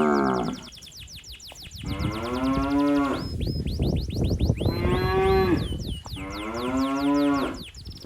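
A calf mooing repeatedly as it calls for its mother: the tail of one moo, then three long moos, the middle one higher-pitched.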